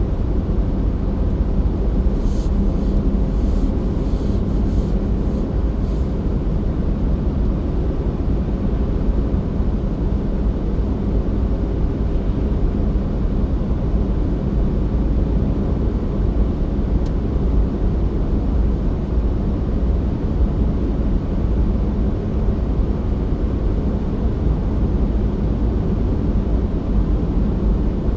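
Steady low rumble of a car driving, its engine and tyres on the road heard from inside the cabin. A few light ticks come about two to six seconds in.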